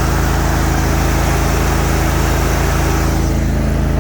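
Hustler Raptor zero-turn mower's 24 hp Kohler engine running steadily at high throttle after being revved up, with a change in its tone about three seconds in.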